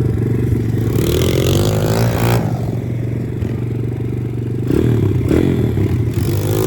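Chinese pit bike's small single-cylinder four-stroke engine running, revved up and back down a few times.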